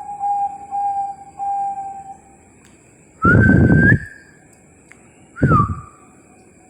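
Bangkok-strain zebra dove (perkutut) cooing: a quick run of short, even notes for about two seconds, then after a pause three louder separate calls, the first rising and the later two dipping and then holding level.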